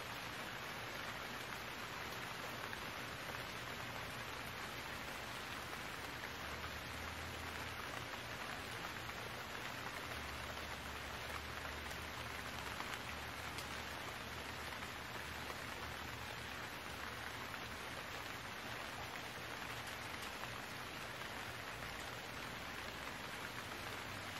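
Steady rain falling, an even hiss with no break. A faint low hum of distant machinery lies underneath and swells slightly for a few seconds around the middle.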